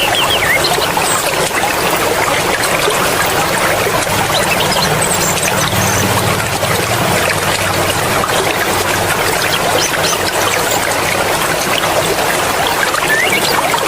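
Mountain stream water flowing and splashing over rocks, a steady dense rush. Faint high chirps come and go over it.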